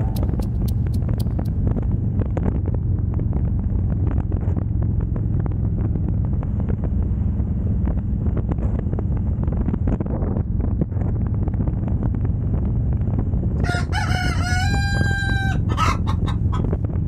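Harley-Davidson Road Glide V-twin engine running steadily at cruising speed, with wind on the microphone. Near the end a rooster crows once, a loud call of about two seconds that rises and then holds.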